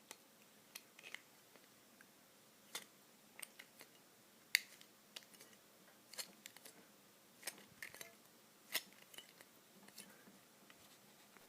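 Pliers crimping the cut edge of a thin aluminium drink can: faint, irregular small clicks and snips, about a dozen spread out with short gaps between them.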